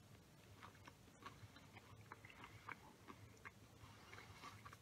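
Faint chewing of a breaded chicken tender: soft, scattered mouth clicks.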